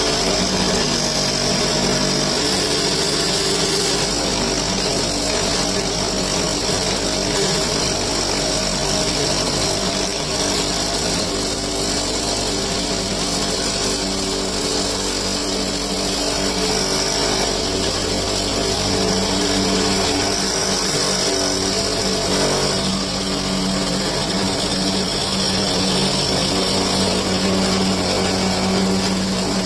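Spindle motor of a homemade friction stir welding machine running steadily: a constant motor hum with a high whine above it.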